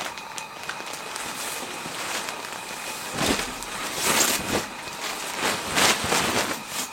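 Irregular rustling and shuffling noises, a few short bursts over a faint steady hiss.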